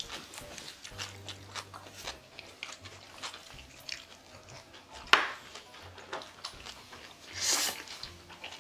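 Close-up eating sounds: people biting and chewing spicy buckwheat noodles with vegetables and chive salad, with many small wet mouth clicks. There is a sharp click about five seconds in and a short, louder rush of noise about seven and a half seconds in.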